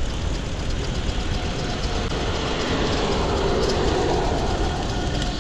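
Wind rushing over the microphone and road noise of an e-bike moving at speed. A louder rush swells about halfway through and fades before the end.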